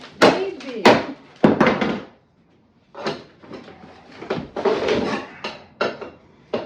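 Sharp knocks and impacts from demolition of a brick fireplace front: three loud strikes in the first second and a half, then a run of lighter knocks.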